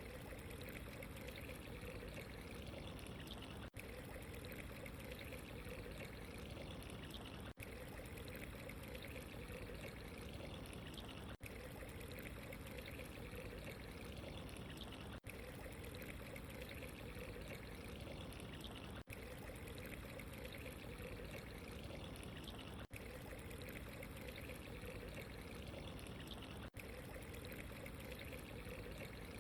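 Steady running water, trickling and pouring without a break, with a brief dip in level about every four seconds.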